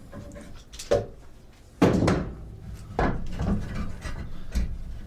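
Wooden parts of a homemade folding table knocking and scraping as they are moved and set in place: several sharp knocks, the loudest about two seconds in, with rubbing of wood on wood between them.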